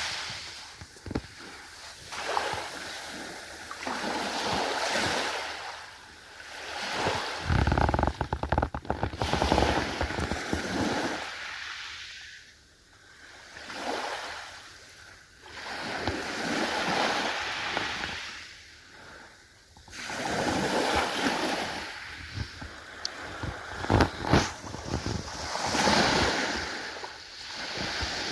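Ocean waves breaking and washing in, each swell rising and falling over a few seconds, with a few sharper crackles of spray.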